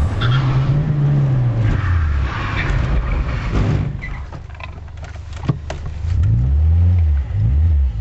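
Car engine revving, heard from inside the cabin, its pitch rising and falling in several swells. It drops quieter for a second or two around the middle, with a sharp click, then revs up and down again near the end.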